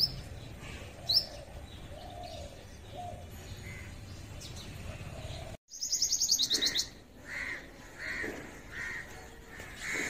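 Small birds chirping. A single sharp high chirp comes about a second in. After a short break just past halfway, there is a quick run of high chirps and then a call repeated about every 0.7 s.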